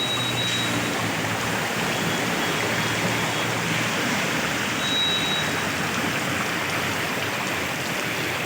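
Steady rush of water, as of floodwater flowing or pouring, with a faint low hum underneath for the first few seconds; it cuts off abruptly at the end.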